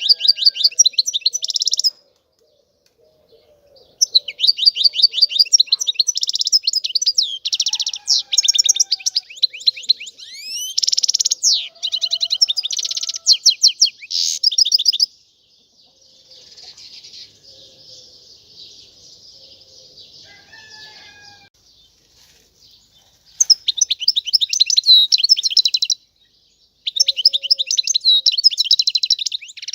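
European goldfinch singing: bouts of rapid, tinkling twittering trills of a few seconds each, with short pauses between them and a quieter stretch of soft twittering in the middle.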